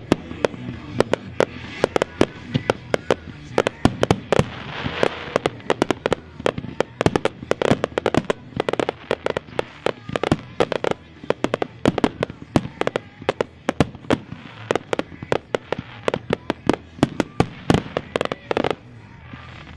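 Consumer fireworks firing a rapid barrage of sharp bangs, several a second and overlapping, with a short lull near the end.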